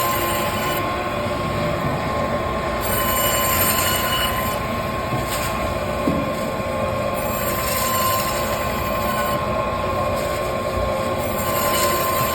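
Electric band saw running with a steady whine while it cuts a large frozen Spanish mackerel into steaks. A higher hiss swells every few seconds as the blade passes through the fish.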